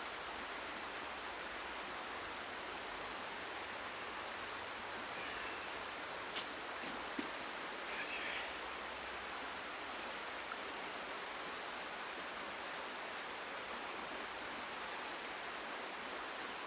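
River water rushing steadily, with a couple of faint knocks about six and seven seconds in.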